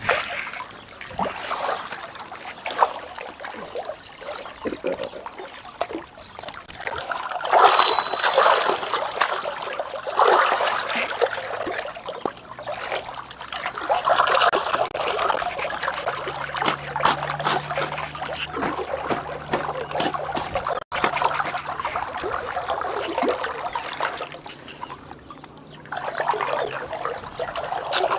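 Stream water trickling and splashing, with louder splashy surges now and then.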